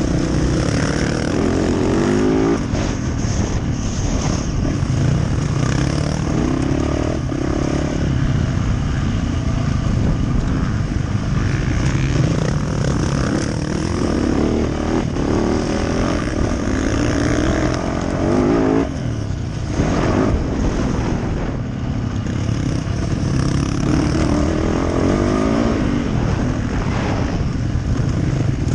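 Yamaha YZ450F dirt bike's single-cylinder four-stroke engine revving hard and backing off again and again as it is ridden around a motocross track, its pitch rising in repeated sweeps, with a brief throttle-off dip about two-thirds of the way in.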